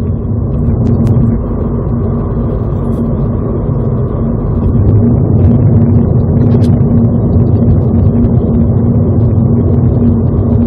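Honda Civic FK7's 1.5-litre turbocharged inline-four running under load while driving, a steady engine drone held at one pitch with heavy low road rumble, growing a little louder about halfway through.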